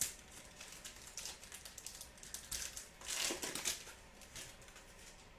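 A trading card pack's wrapper being torn open and crinkled, with cards handled. There is a sharp click at the start and a louder spell of rustling about three seconds in.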